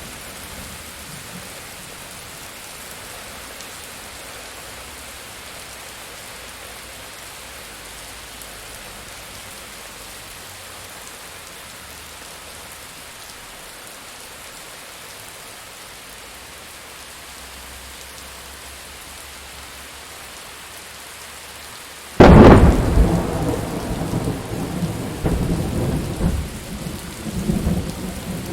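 Steady rain falling, then about 22 seconds in a sudden, very loud thunderclap cracks close by and rolls on as rumbling thunder over the rain.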